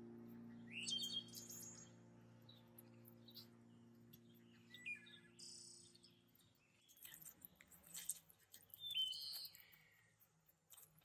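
Small birds chirping in short scattered calls over soft background music that fades out about two-thirds of the way through. A few faint light clicks near the end.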